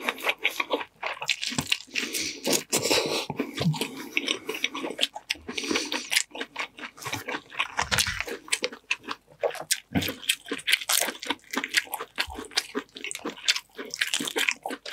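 Close-miked eating: wet chewing, crunching and lip smacks from a mouthful of boiled corn and seafood, with many quick crackles. Near the end, the shell of a boiled shrimp crackles as it is pulled apart by hand.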